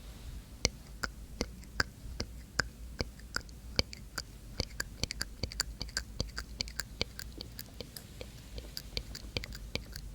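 ASMR mouth sounds: sharp, wet mouth and tongue clicks, a couple a second at first and coming faster and denser from about four seconds in.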